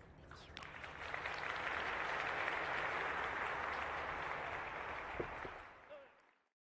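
A large audience applauding, swelling about a second in, then fading out near the end.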